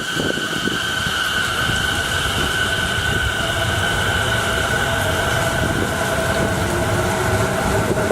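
JR East 209 series electric train at the platform, its motors giving a slowly rising whine from about three seconds in as it starts to pull away, over the rumble of the train and the hiss of heavy rain.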